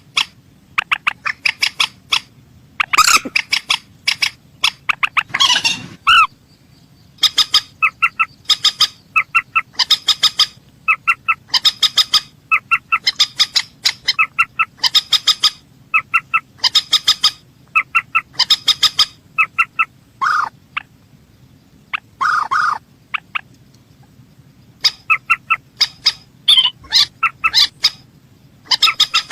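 Calls of a mandar sawah, a rice-field rail, repeated in quick runs of short, sharp notes several times a second, broken by brief pauses. This is the kind of recording played to lure the bird.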